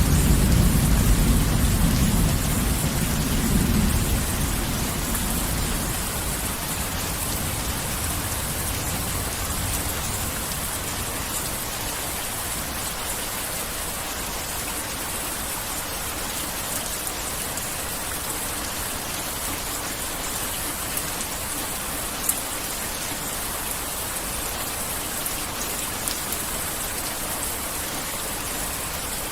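Heavy rain falling steadily, with the tail of a thunder rumble dying away over the first few seconds.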